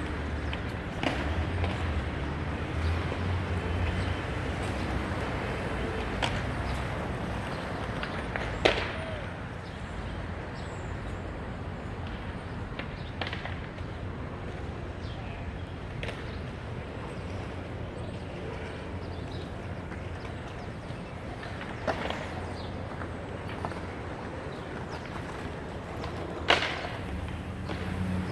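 City street background noise, a steady hum with a low traffic rumble that is heavier in the first few seconds. A few sharp knocks cut through it, the loudest about nine seconds in and another near the end.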